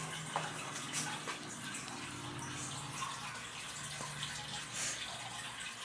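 Running water, steady, with a low hum underneath and a few faint clicks.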